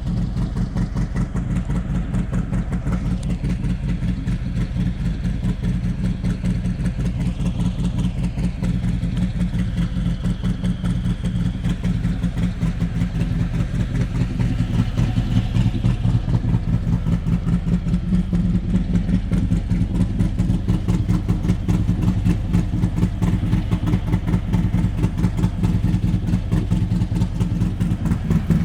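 Harley-Davidson Heritage Classic's Milwaukee-Eight 114 V-twin running through a Rinehart exhaust, a steady pulsing rumble that grows a little louder about halfway through.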